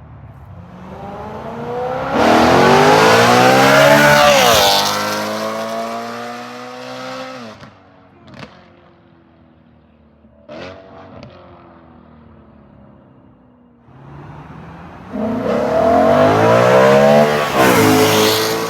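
BMW M3's S65 V8 through a catless resonated X-pipe, valves open, revving hard under full acceleration twice. The pitch climbs steeply and drops sharply at a gear change about five seconds in, then settles lower with a couple of sharp cracks. Near the end it climbs into a high-pitched scream again.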